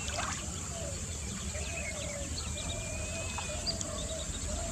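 Natural outdoor ambience with several small birds chirping and calling in short, scattered notes, over a steady high hiss and a low rumble.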